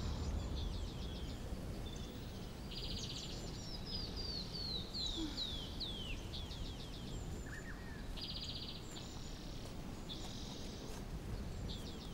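Small birds chirping, with fast trills and a run of quick falling notes, over a steady low outdoor hiss.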